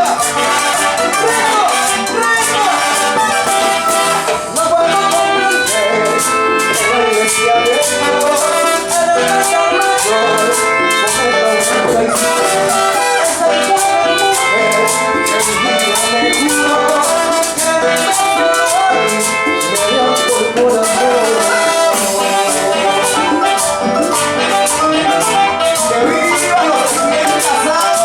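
Latin dance band playing an upbeat salsa-style tune, with a quick, steady percussion beat under layered melody instruments.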